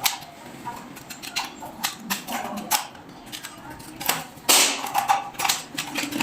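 Irregular sharp clicks and knocks of hand tools and switch-board parts being handled, with a louder noise lasting about half a second about four and a half seconds in.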